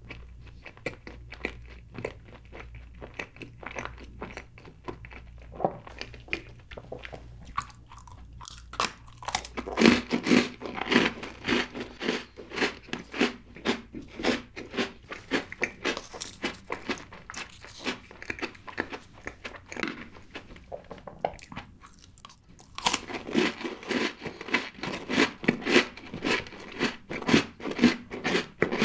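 Close-miked eating: soft chewing of a mouthful of chocolate cake, then loud, rapid crunching of Oreo cookies in two long stretches, starting about nine seconds in and again near the end.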